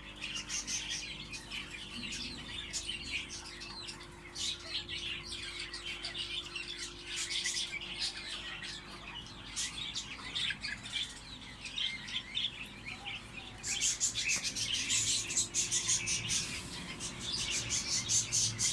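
Many small birds chirping and twittering in a dense, continuous chatter, louder over the last five seconds.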